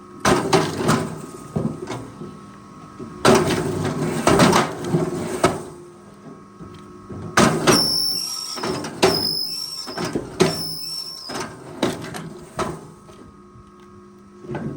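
Forestry machine working: its engine runs steadily under three stretches of knocking and clattering, and in the middle stretch a high-pitched squeal comes and goes several times.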